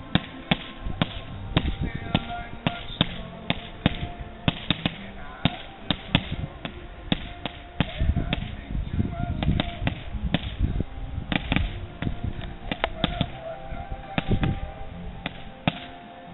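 Consumer fireworks cakes and roman candles firing in a rapid, uneven string of sharp bangs and pops, several a second.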